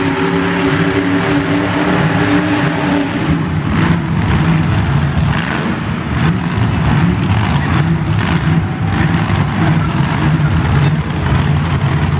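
Monster truck engines running hard and revving. A clear engine note rises slightly over the first three seconds, then gives way to a rougher, noisier engine sound.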